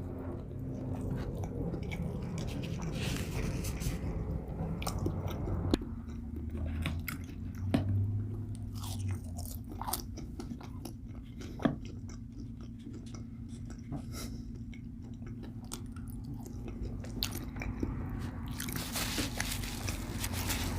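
A person chewing and biting food close to the microphone, with soft crunches and wet mouth clicks and a few sharper snaps.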